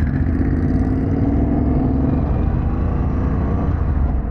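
Harley-Davidson Pan America's Revolution Max 1250 V-twin running steadily under way, a continuous low engine rumble.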